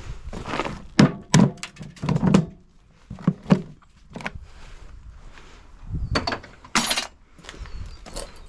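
A series of knocks and thunks from a washing machine's parts being worked loose during teardown, with a sharper clatter about seven seconds in.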